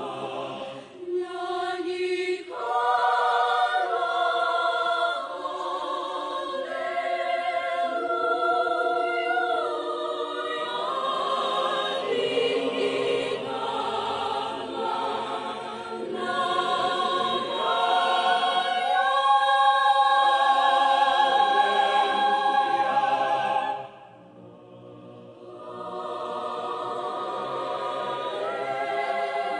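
Choir singing held chords in several voices, changing pitch every second or two; it drops to a soft passage for a moment near the end, then swells again.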